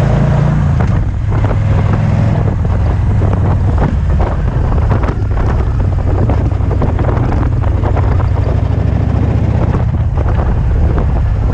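2008 Victory Vision touring motorcycle's V-twin engine running under way on the road, with the engine note dropping about a second in and then holding steady. Wind buffets the helmet-side camera's microphone throughout.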